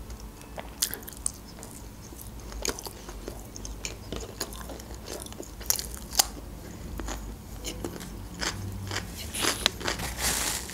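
Close-miked chewing of grilled chicken and a fresh cucumber slice: soft mouth sounds with irregular crisp crunches, coming thicker near the end.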